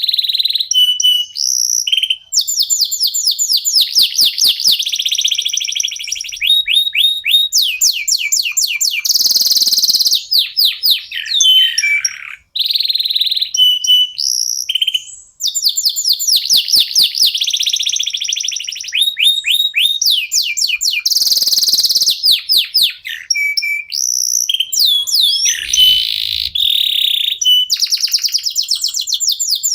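Domestic canary singing a long, fast song of rapid trills and rolls mixed with short whistled notes, broken only by a couple of brief pauses.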